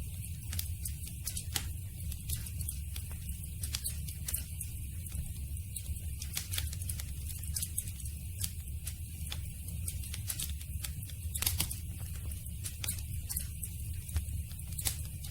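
Campfire crackling: a steady low rumble of burning wood with frequent irregular sharp pops and snaps, one louder pop about eleven seconds in.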